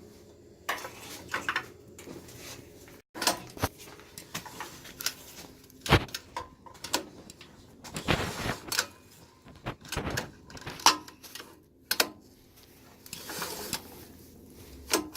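Recoil starter cord of a Predator 212 small engine pulled a few times, turning the engine over with the spark plug out to spread fogging oil through the cylinder, among scattered clicks and knocks of handling.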